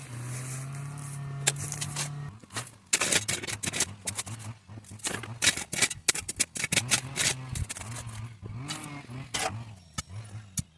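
Repeated scrapes and knocks of a shovel digging a trench in stony soil, over a steady low hum.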